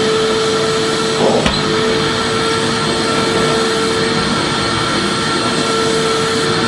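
Vacuum cleaner running steadily, a full, even noise with a constant hum in it, played as a soothing background noise for babies. A brief click sounds about a second and a half in, and the running carries on unchanged.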